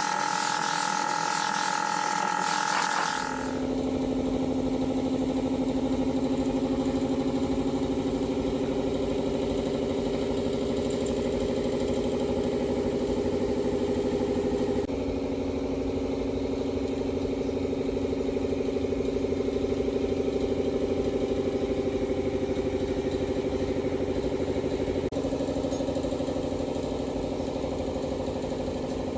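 A hissing spray for about the first three seconds, then an engine idling steadily. Its sound shifts abruptly twice, about halfway through and near the end.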